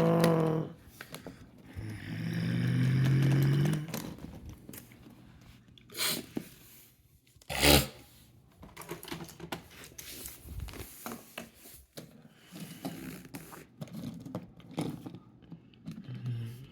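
Toy monster trucks being pushed along, scraping and bumping on a hard surface, with two sharp knocks about six and eight seconds in. Early on a voice makes a drawn-out engine noise for the trucks.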